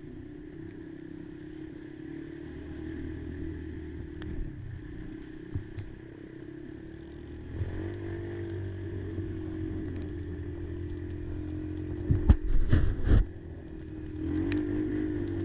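Kymco Maxxer 300 quad's engine running under way, picking up revs about eight seconds in and again near the end. A quick cluster of loud thumps about twelve seconds in.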